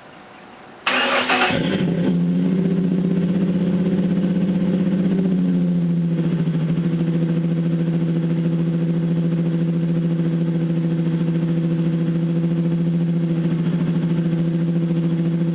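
Supercharged Ford Ranger 4.0-litre V6 starting about a second in through Flowmaster 44 mufflers, Magnaflow cats and an X-pipe, with a sudden loud catch. It then runs at a steady, slightly raised idle that settles lower after a few seconds.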